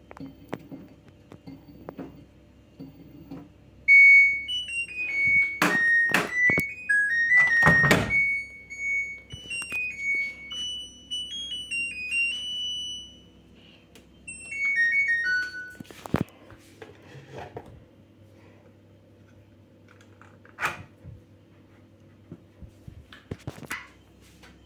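LG F2T9GW9P washing machine's electronic beeper playing its end-of-cycle melody as a tune of stepped beeps, with a few sharp knocks among the notes. A few seconds later a short falling run of beeps follows.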